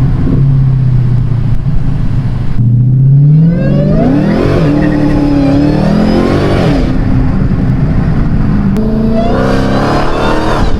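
Dodge Hellcat's supercharged 6.2-litre V8 exhaust through a mid-pipe delete and Dynomax race bullet mufflers, with a low throaty tone. It runs steadily, then revs up about three seconds in, holds and drops back about seven seconds in, and revs up again near the end.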